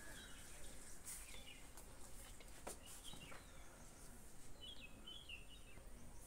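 Faint background hiss with a few short bird chirps, a small cluster of them near the end, and a single light click about two and a half seconds in.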